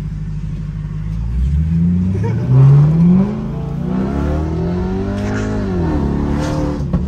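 BMW E60 550i's V8 engine heard from inside the cabin, accelerating hard. It runs steadily at first, then the pitch climbs, drops at a gear change about two seconds in and climbs again. It rises more slowly after that and falls away about six seconds in as the throttle eases.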